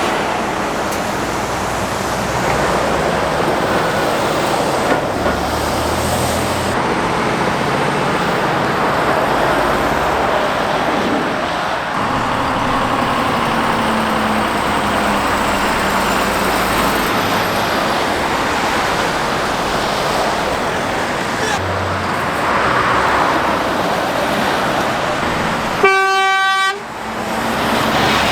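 Heavy road traffic passing close by, a steady rush of tyres and engines as lorries go past one after another. Near the end, a single vehicle horn blast about a second long on one steady note.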